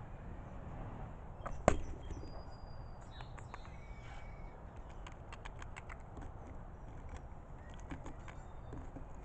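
Outdoor background noise with a single sharp knock about two seconds in, a few faint high bird chirps, and a run of light, quick clicks or taps through the middle.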